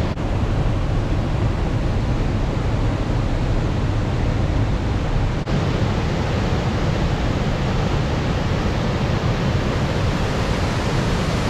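Waterfall on the River Conwy: a steady, loud rush of falling water, heaviest in the low end, with a brief dip about five and a half seconds in.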